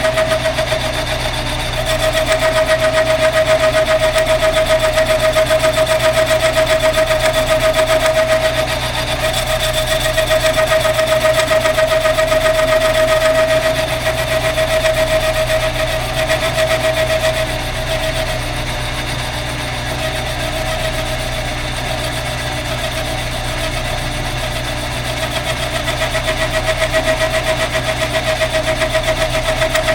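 Metal lathe running as a boring bar cuts the inside of a motorcycle cylinder, bringing the bore up to size for the piston. A steady motor hum under a steady whining tone from the cut, which weakens for a few seconds past the middle and then comes back.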